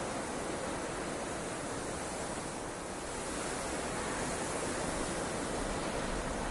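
Steady, even rushing noise of blizzard wind, with no distinct gusts or hits.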